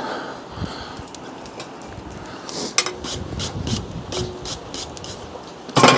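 A few light metal clinks and scrapes of steel stock and tongs, clustered about halfway through, over a steady rushing background.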